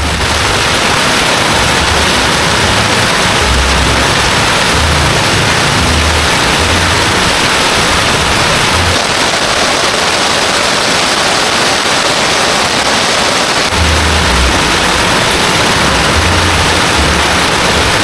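Heavy rain pouring down, a loud steady hiss, with irregular low rumbles underneath.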